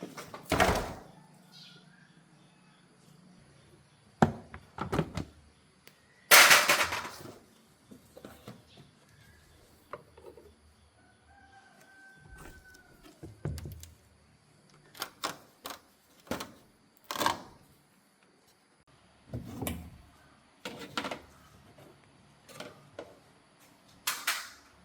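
Intermittent knocks and clunks of hand work on a car, about a dozen separate impacts, the loudest a longer noisy burst about six seconds in. A brief chirp-like call sounds once near the middle.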